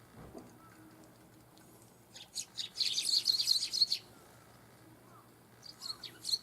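Eurasian tree sparrows chirping: a dense run of quick, high chirps starting about two seconds in and lasting about two seconds, then a shorter cluster of chirps near the end.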